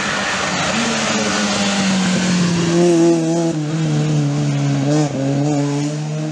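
Rally car's engine running hard at speed as the car passes, its pitch shifting with the revs, with a brief dip and recovery in revs about five seconds in.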